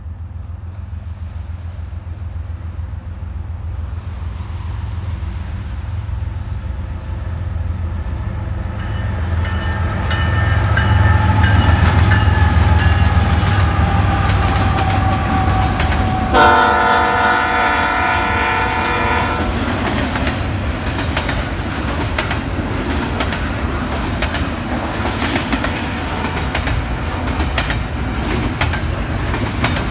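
Diesel train approaching and passing: the locomotive's rumble builds to its loudest about ten to thirteen seconds in, with a whine falling in pitch as it goes by. One multi-tone horn blast of about three seconds sounds just past the middle, followed by the steady rolling rumble and clatter of the cars on the rails.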